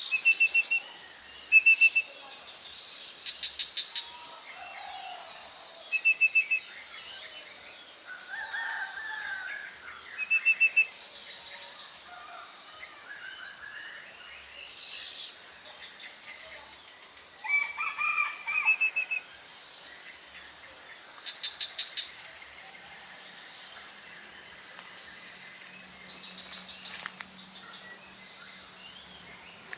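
Birds calling: short repeated chirps and higher note series come and go throughout, some louder bursts among them, over a steady high whine.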